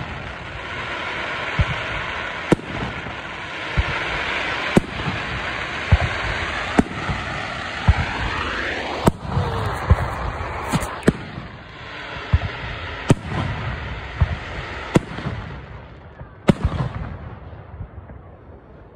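Aerial fireworks shells bursting in the sky: about fifteen sharp bangs at irregular intervals, roughly one a second, over a steady hiss that thins out in the last few seconds.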